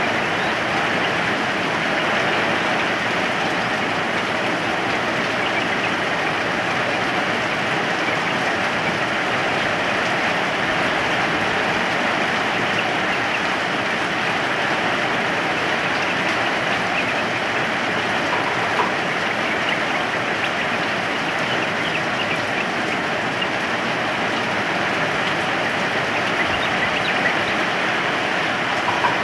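Steady rain, an even hiss that doesn't change in strength.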